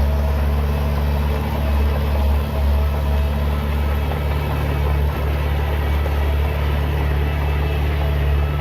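Heavy construction machine's diesel engine running steadily at an even speed, low and constant with no revving or impacts.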